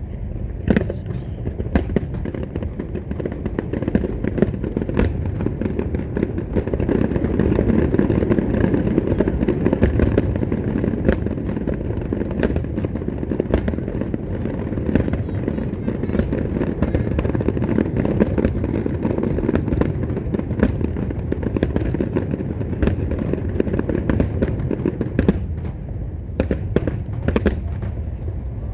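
Large fireworks display being fired. A continuous barrage of sharp bangs and crackles rides over a steady rumble of bursts and grows heaviest about seven to eleven seconds in.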